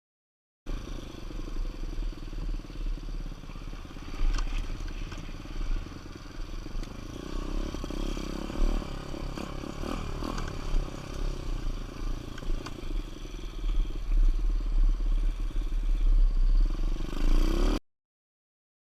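125cc dirt bike engine running and revving over rough ground, with heavy wind buffeting and rattling knocks from the bike. It cuts in abruptly just after the start and cuts off abruptly near the end.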